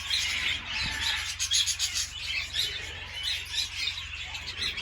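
A flock of budgerigars chattering: many quick overlapping chirps and squawks all the way through.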